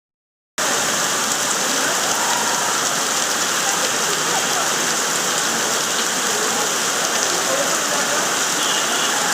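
Heavy rain falling steadily onto surfaces, a dense even hiss.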